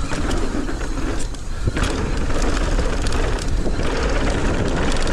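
Mountain bike riding fast down a dirt trail: wind rumbling on the microphone and tyres on dirt, with frequent small clicks and rattles from the bike.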